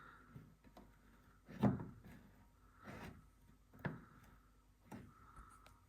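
A few separate knocks and clicks of a tool and plastic trim clips being worked at by hand, the first the loudest.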